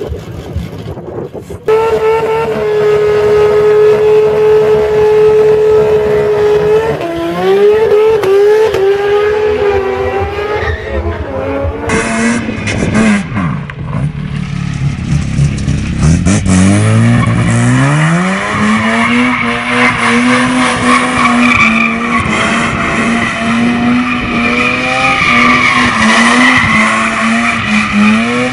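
A drag car's engine held at steady high revs on the line, then launching, its revs climbing in repeated steps through the gears. After about twelve seconds, a Mazda rotary engine in a van revs up and is held at high revs during a burnout, with tyres squealing.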